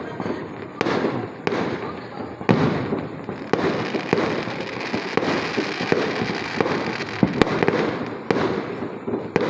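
Fireworks going off: sharp bangs about once a second over a continuous crackle.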